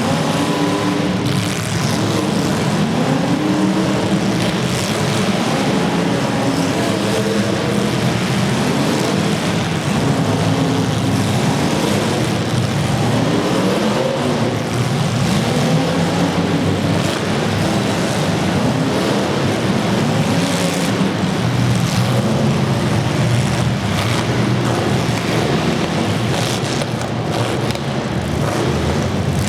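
Several demolition derby car engines revving hard, their pitches rising and falling over one another, with a few sharp knocks near the end.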